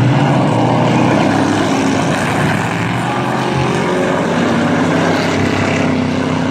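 A field of dirt-track race trucks running hard together on the green-flag restart, a loud continuous blend of several engines.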